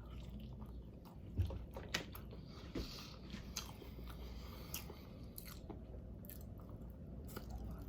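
A person chewing and biting food close to the microphone, with scattered small crunches and mouth clicks over a low steady hum.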